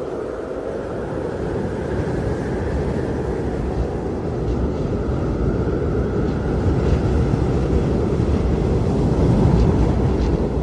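Blizzard wind blowing hard: a steady low rush with a faint wavering whistle above it, gusting a little stronger near the end.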